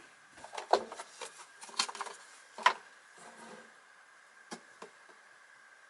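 Parts of a vacuum cleaner's motor case being handled and set down on a workbench: a string of light knocks and clicks in the first three seconds, then two more a little after four seconds.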